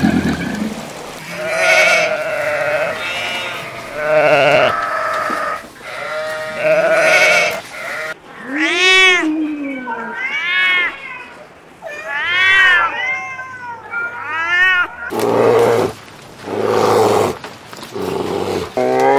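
A string of animal calls one after another: wavering bleat-like cries at first, then about five rising-and-falling cat meows in the middle, then more calls near the end.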